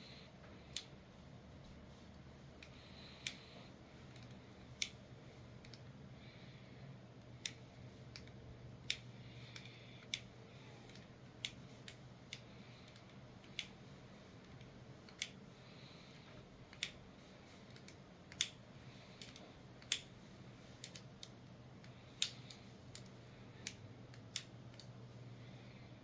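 Leatherman Signal multitool being worked open and closed again and again, giving sharp metal clicks at irregular intervals of about one to two seconds. This is the tool's stiff, grimy pivot being worked in after oiling with sewing-machine oil.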